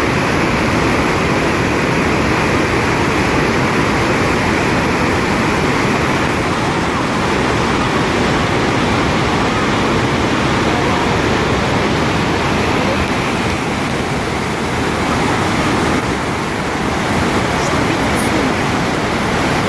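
Loud, steady rush of water from the Rhine Falls, a large river waterfall, heard close by.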